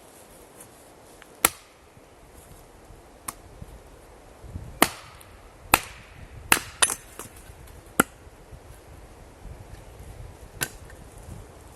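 Axe splitting firewood: about nine sharp, separate blows at uneven intervals, the loudest in the middle stretch. The axe has a newly fitted, makeshift handle that is being tested by chopping.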